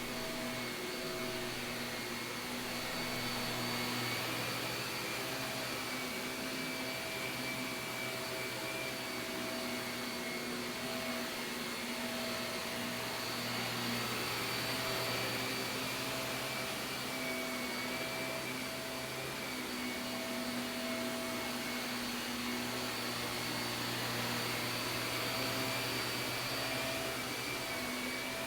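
Shark vacuum cleaner running steadily on carpet: a constant motor rush with a high whine that wavers a little in pitch, the level swelling and easing slowly as it is worked back and forth.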